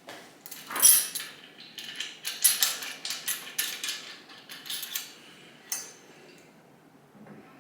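Metal parts and tools clinking and rattling as they are handled: a loud clink about a second in, a quick string of clinks over the next few seconds, and one last click near the end.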